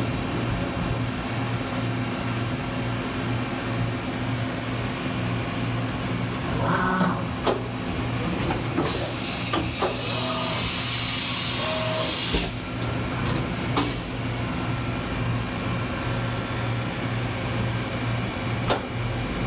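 Fadal VMC4020HT CNC vertical mill powered up, running with a steady hum. A few sharp mechanical clicks sound through it, and around halfway a hiss of compressed air lasts about three seconds.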